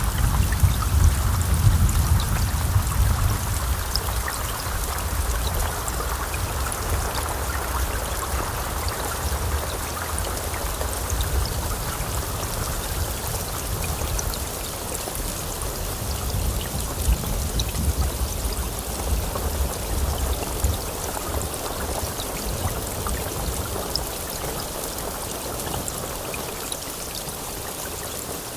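Heavy rain falling steadily. A low thunder rumble in the first few seconds fades away and comes back more faintly now and then.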